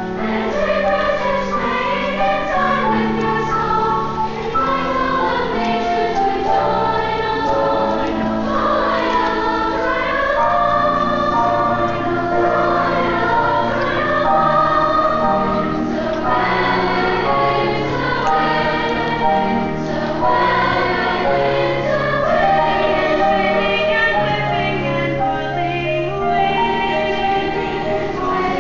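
A school choir of young voices singing a choral song in several parts, with sustained held notes under the moving melody.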